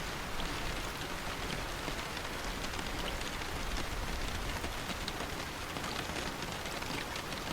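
Steady rain falling, an even hiss with a few faint individual drop taps.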